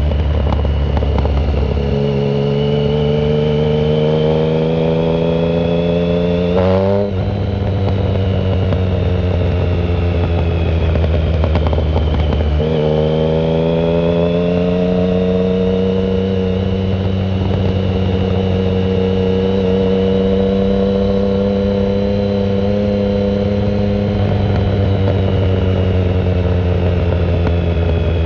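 2009 Triumph Speed Triple 1050 three-cylinder engine running loud through a shorty Competition Werkes exhaust with no silencer. It pulls up in pitch and drops sharply at two upshifts, about 7 and 12 seconds in, then climbs slowly and settles into a steady cruise.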